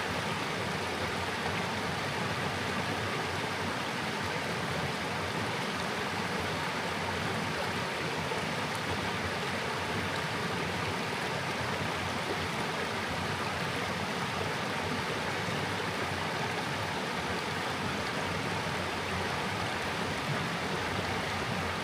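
River water flowing and rushing steadily, an even rush with no breaks.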